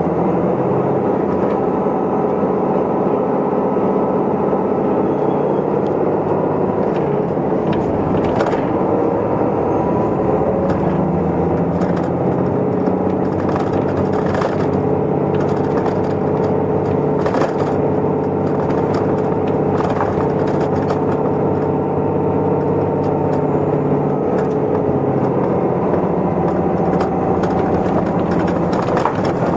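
Cabin running sound of an Isuzu Erga Mio city bus under way between stops: a steady diesel engine and drivetrain drone, with occasional short clicks and rattles from the interior.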